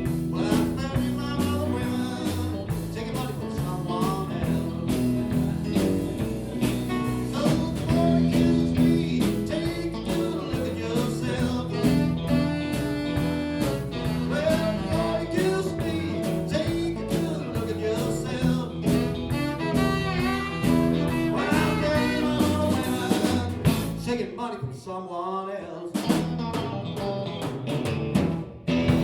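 Live band playing bluesy rock music with guitar and vocals.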